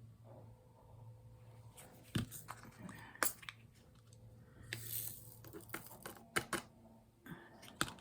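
Scattered small clicks, taps and crinkling from handling diamond painting drills and tools, with a kitten's low purr underneath at times.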